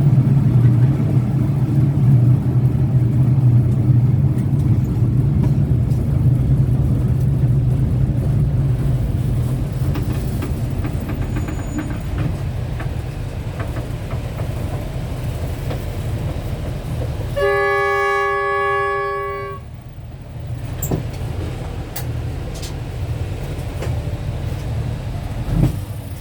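Train running with a steady low rumble that slowly weakens, then a single train horn blast of about two seconds, two-thirds of the way through, followed by a few light clicks.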